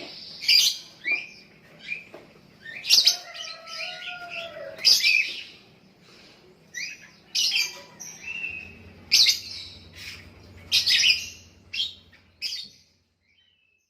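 Young lovebird chirping and chattering: a string of sharp, high-pitched chirps with louder bursts every second or two, which stops shortly before the end.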